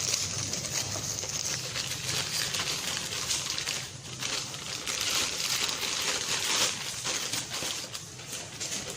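Plastic packaging crinkling and rustling as it is handled, unwrapped and moved about, continuous with many small crackles.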